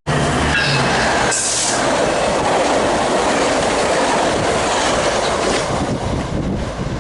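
Metrolink commuter train, F125 locomotive with cab car, running past close by: a steady, loud rush of wheels on rail, with a few short tones about a second in.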